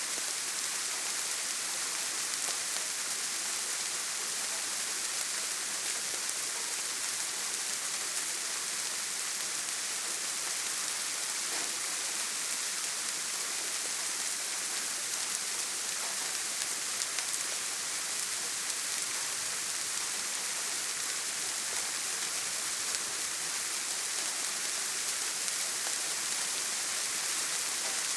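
Heavy rain falling on a tin roof: a steady, even hiss that does not change.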